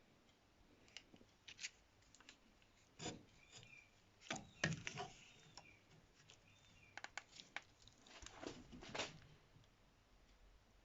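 Faint handling sounds: scattered light taps and short scrapes as a straightedge ruler is set against the friction face of a brake pad to check it for flatness.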